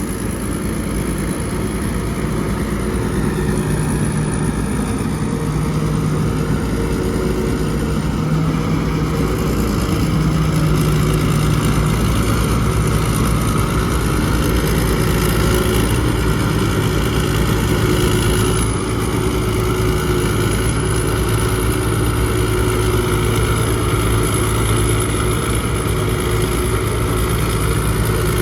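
Rice combine harvester's diesel engine running steadily under load, with small rises and falls in level.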